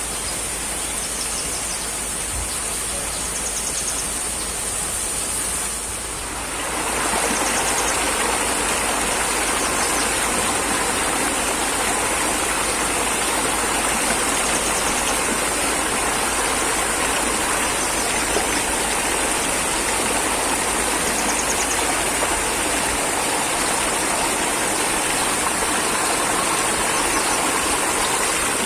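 Steady rushing of running water, like a stream; about six seconds in it grows louder and fuller. A thin high hiss runs under it throughout.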